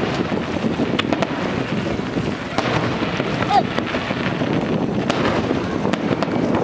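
Fireworks going off, with a few sharp bangs and crackles over a continuous noisy wash of crowd and wind on the microphone.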